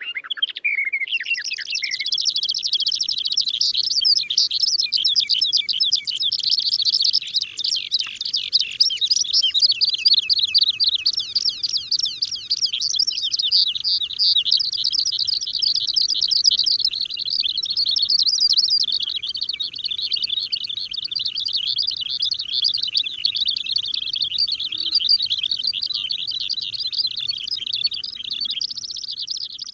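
A flock of small birds chirping and twittering continuously: many quick, high chirps overlapping in a dense chorus.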